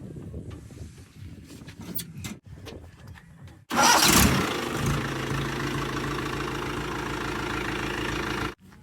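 A heavy diesel engine, from a tractor or backhoe loader at work, is heard faintly and unevenly at first. About four seconds in, an engine starts with a loud burst and then runs steadily and loudly until the sound cuts off near the end.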